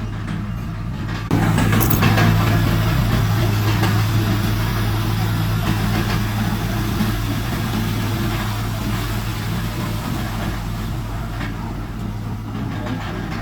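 Heavy diesel engine of earthmoving machinery running with a steady low hum. About a second in it suddenly gets louder with a rushing noise on top, which then slowly dies away.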